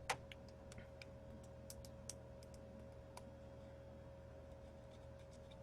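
Near silence: room tone with a faint steady hum and a scattering of light clicks and ticks, the strongest just after the start and the rest fading out after about three seconds.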